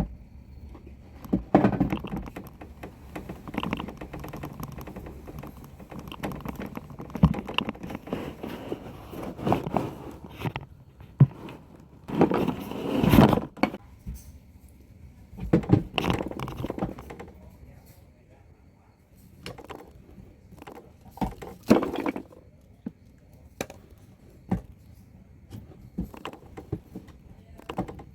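Toy Mack MRU trash truck being handled and played with: irregular knocks, clicks and scrapes, busiest about halfway through.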